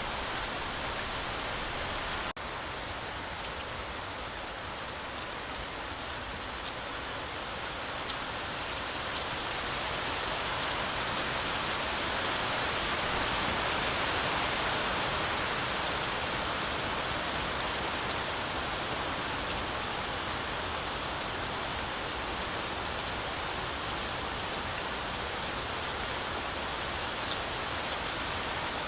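Heavy rain falling steadily, a dense hiss of drops that swells louder around the middle and eases a little after. A brief dropout cuts through it about two seconds in.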